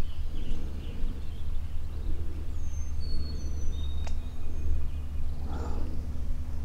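Outdoor ambience dominated by a steady low rumble, with a few short, thin songbird whistles about two to three seconds in and a single faint click a little after.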